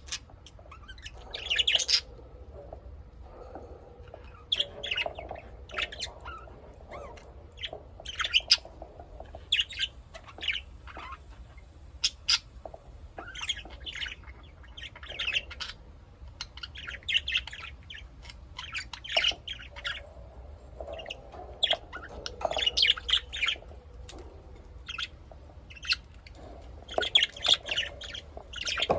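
Caged lovebirds squawking and chirping in short, sharp calls that come in clusters every second or two.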